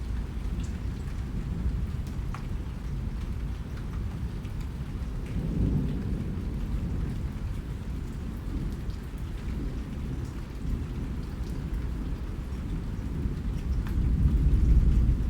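Steady rain falling, with faint scattered drop ticks over a deep low rumble that swells about six seconds in and again near the end.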